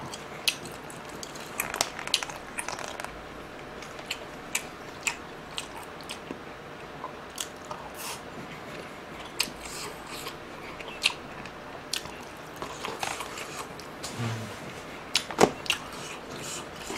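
Close-miked chewing of pickled greens and rice, with scattered wet mouth clicks and smacks, and a short hum of approval near the end.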